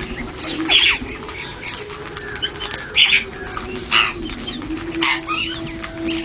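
Aviary birds calling, with loud short calls about a second apart over a low, drawn-out tone that wavers slightly in pitch.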